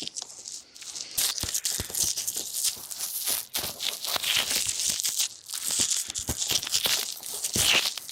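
ASMR ear massage: fingers rubbing and scratching right on a microphone, making a dense, close crackle of rustles and small scratches that swell and ease without a break.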